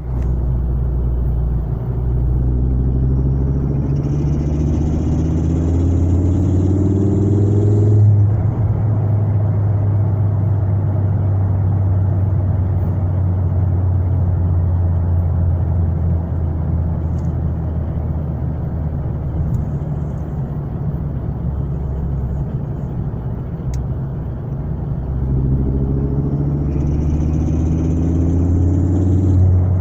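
Ford Focus ST's 2.5-litre turbocharged five-cylinder engine pulling twice, rising in pitch for several seconds each time with a high whistle over it. Each pull cuts off suddenly, with steady running in between. The owner takes the whistle for a weird sound from the turbo.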